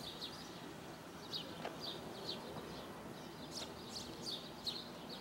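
Small birds chirping: short, high, quick chirps repeating two or three times a second, over a steady faint hiss of outdoor noise.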